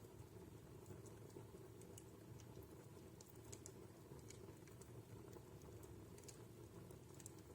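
Wood fire crackling in a fireplace: faint, irregular small pops and snaps over a low steady rumble.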